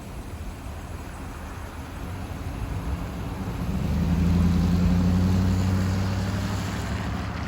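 A vehicle engine passing close by: a low engine hum swells about three seconds in, is loudest a little past the middle, then eases off.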